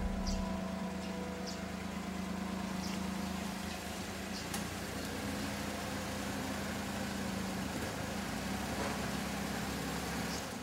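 A small kei car's engine running at low speed as the car creeps forward, a steady low hum.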